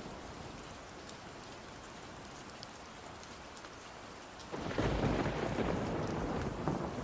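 Steady rain falling, with a roll of thunder that breaks in suddenly about four and a half seconds in and rumbles on.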